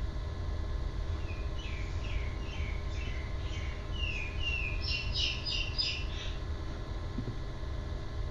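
A bird singing: a run of short, quick chirps, each dropping in pitch, for about five seconds, coming faster and louder near the end, over a steady low hum of room noise.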